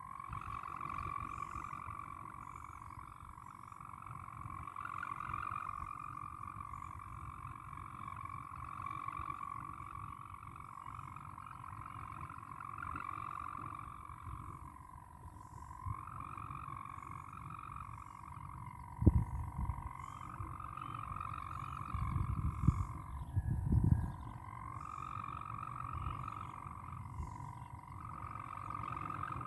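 Hummer bow of a flying Malaysian wau kite droning in the wind: one steady, slightly wavering tone that sags and dips every few seconds as the wind eases. Wind buffets the microphone in a few loud low gusts about two thirds of the way in.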